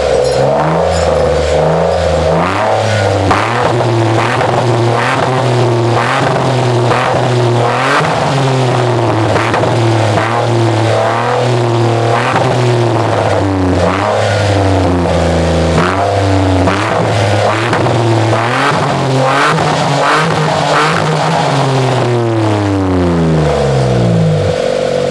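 Nissan March engine heard through an AZC exhaust muffler, revved again and again in short blips, each rise in pitch falling back. Near the end the engine drops back to idle.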